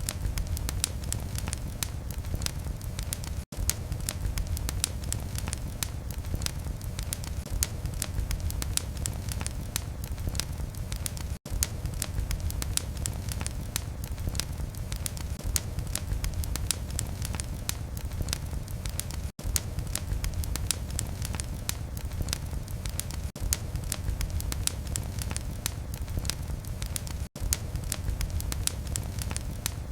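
Wood fire in a fireplace crackling steadily, with dense sharp pops and snaps over a low rumble of burning. The sound cuts out very briefly about every eight seconds.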